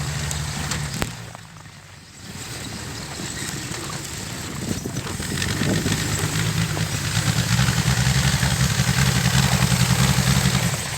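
Engine of a 1961 Bombardier narrow-gauge snow vehicle running just after a cold start. The sound drops away briefly about a second in, then returns and grows louder and steadier from about six seconds in.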